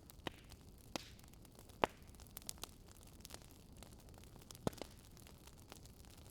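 Wood fire crackling in a fireplace: irregular sharp pops and snaps over a low, steady hiss. The loudest pops come about two seconds in and again near five seconds.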